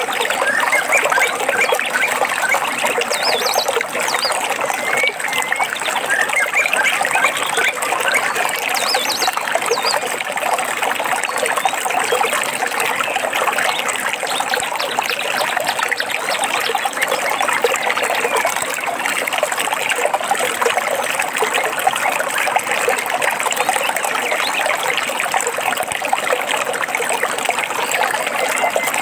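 A small stream trickling and splashing steadily over rocks, with songbirds chirping now and then over it, mostly in the first third.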